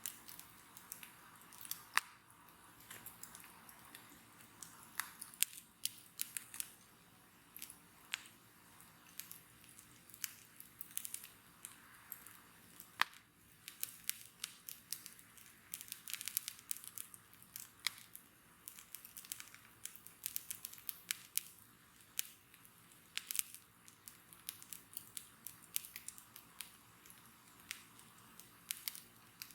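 Wood bonfire crackling: irregular sharp snaps and pops over a soft hiss, with an occasional louder pop standing out.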